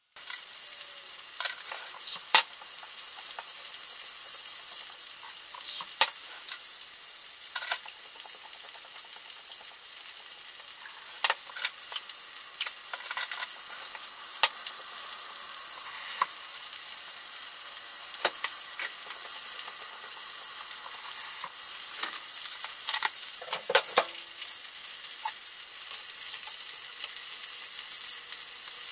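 Chicken pieces shallow-frying in oil in a frying pan, a steady high sizzle, with occasional sharp clicks and knocks.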